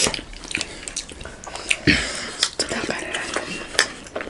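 Close-miked wet mouth sounds of people eating juicy momo dumplings: chewing, with a string of short, sharp wet clicks and smacks.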